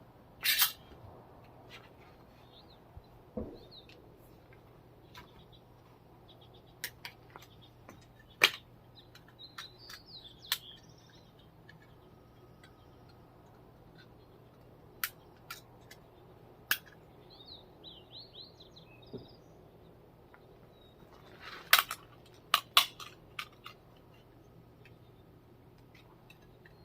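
Scattered sharp clicks and knocks, several in quick succession near the end, with a few faint, quick bird chirps in the middle over a faint steady hum.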